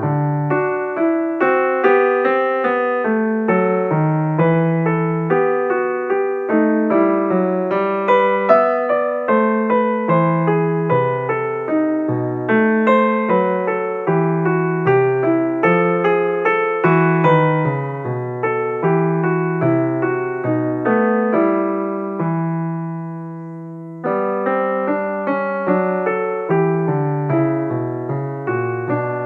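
Solo piano background music: a steady run of gently struck notes, with one chord left to fade out about two-thirds of the way through before the playing picks up again.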